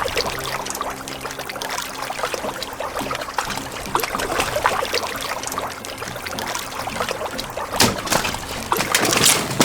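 Water pouring and trickling, with many small splashes and clicks, and a sharper knock about eight seconds in.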